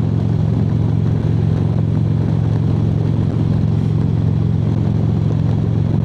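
Harley-Davidson V-twin motorcycle engine running at a steady highway cruise: an even, low drone, with wind rushing over the bike.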